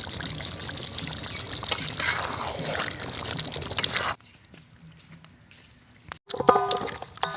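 Chicken curry cooking in a pot over the heat, a steady hissing that cuts off abruptly about four seconds in. Near the end come a few short ringing knocks.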